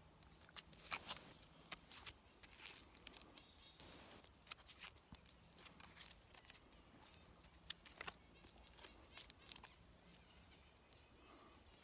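Faint, irregular crackling and rustling of dry cattail stem fibers being twisted by hand into cordage.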